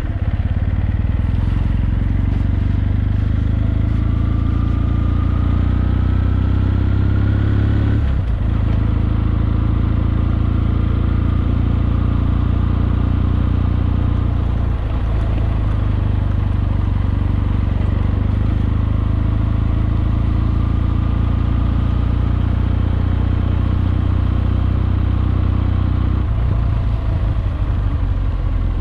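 Kawasaki W650's air-cooled parallel-twin engine running as the motorcycle rides along, its note climbing slowly for a few seconds and breaking briefly three times, at about 8 and 15 seconds and again near the end.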